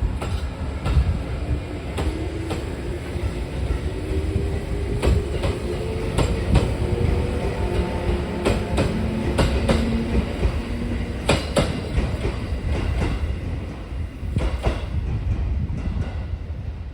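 Train passing close by: a loud rumble of wheels with a rapid run of clacks over rail joints, and a faint tone that rises slowly in pitch.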